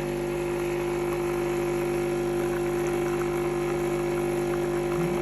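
Nescafé Dolce Gusto Mini Me capsule coffee machine's water pump running with a steady hum while it dispenses water into the cup.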